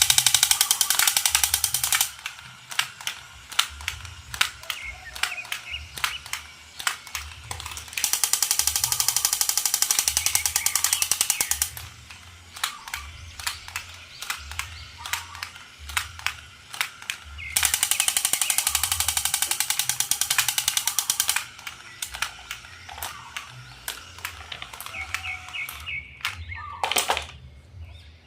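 Handling of a boxed toy set: three stretches of a rapid, buzzing rattle, each a few seconds long, with scattered clicks and taps between them.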